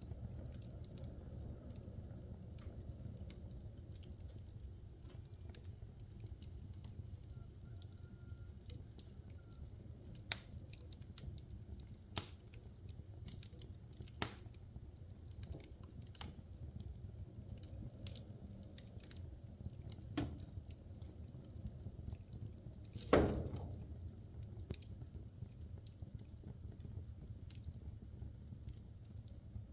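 Logs burning in a wood fireplace: a steady low rumble of flames with constant small crackles. A few sharper pops come between about a third and a half of the way through, and the loudest, longest crack comes about three quarters through.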